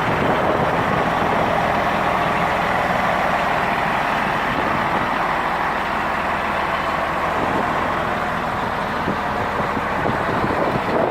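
Diesel engine of a Volvo L220D wheel loader running steadily.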